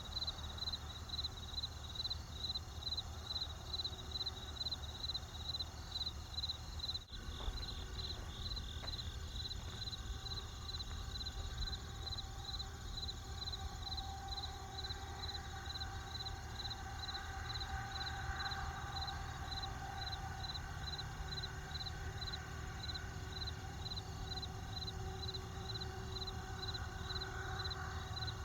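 Crickets chirping in a steady rhythm of about two high chirps a second, over a continuous high insect trill and a low background rumble.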